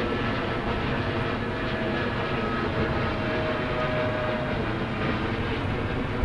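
A steady mechanical engine drone with a faint hum, even and unchanging throughout.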